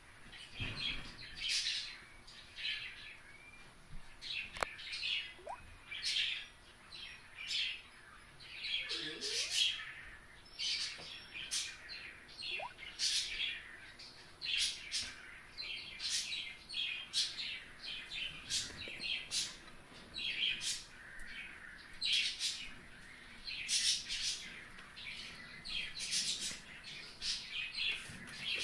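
A bird chirping over and over, short high chirps coming more than once a second.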